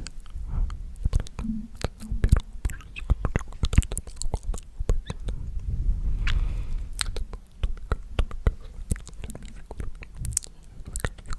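Very close unintelligible whispering and mouth sounds: a dense, irregular run of small wet clicks and smacks with breathy puffs into the microphone.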